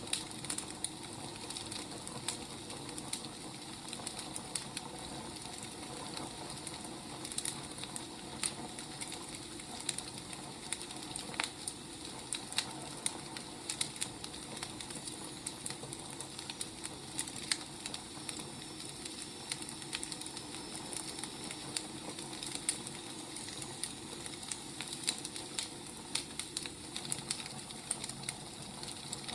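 Firewood burning: a steady low hiss with irregular sharp crackles and pops.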